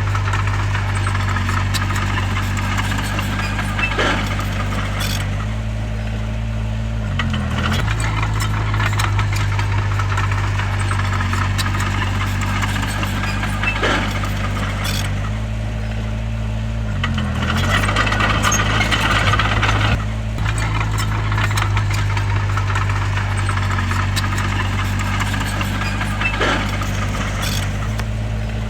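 Bulldozer's diesel engine running steadily, its pitch dipping and recovering briefly three times, about every ten seconds. Sharp knocks come and go over the engine, and a louder rough, gritty stretch comes about two-thirds of the way through.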